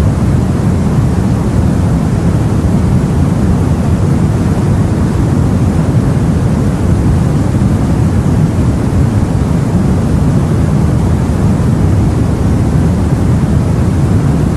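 Steady, deep rush of the open sea and wind, heard from aboard a boat, with no separate wave breaks or other events standing out.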